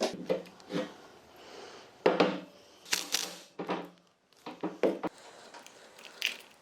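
Irregular knocks and clatter of hard objects being handled, with the loudest hits about two and three seconds in and a few more near five seconds, some of them ringing briefly.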